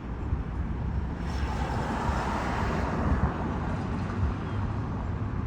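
A vehicle passing: road noise swells about a second in and fades over the next few seconds, over a steady low rumble.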